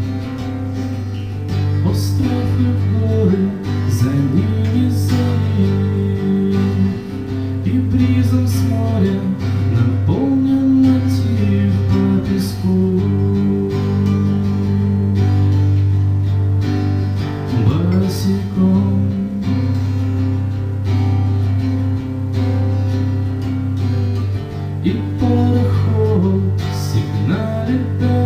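Acoustic guitar music played live: strummed and picked guitar chords over a steady low bass note, with melodic lines moving above.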